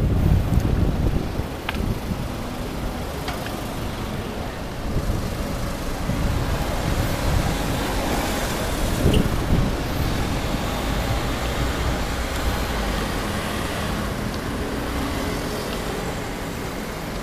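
Road traffic: a steady rumble of passing cars, with gusts of wind on the microphone in the first second or so.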